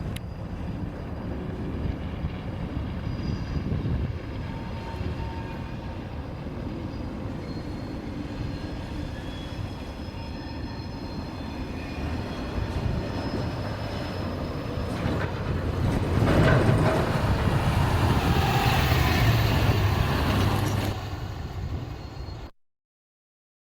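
Freight cars being switched: a steady low rumble of a switching engine moving covered coil cars, with faint thin wheel squeals. It grows louder about two-thirds of the way through, then cuts off suddenly near the end.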